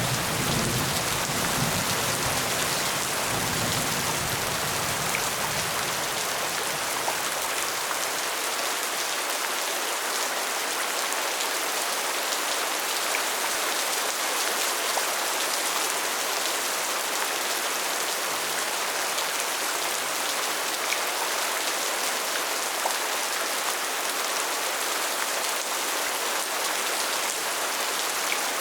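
Steady, heavy rainfall pattering on surfaces, an even hiss of drops. A low rumble, the tail of thunder, dies away over the first several seconds.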